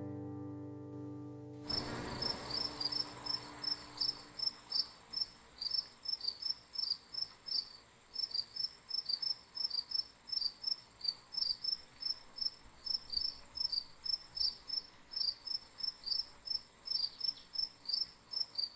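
The last chord of banjo music dies away, then insect calls begin abruptly about a second and a half in: one steady, very high continuous trill with regular chirps about three a second over it, typical of crickets.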